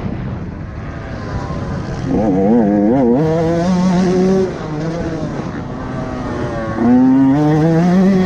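125 cc two-stroke dirt bike engine revving up and down as the throttle is worked, with a quick wavering of pitch about two to three seconds in and a long climb in revs near the end.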